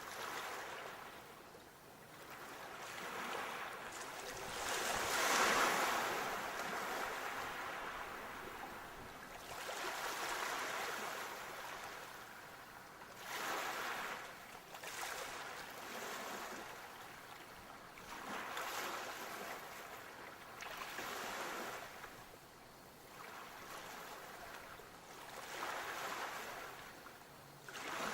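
Sea waves breaking and washing up the shore, in repeated swelling surges of hiss a few seconds apart; the biggest comes about five seconds in.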